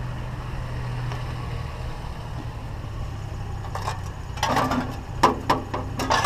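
Pickup truck engine idling steadily, with a run of sharp clanks and knocks in the last two seconds.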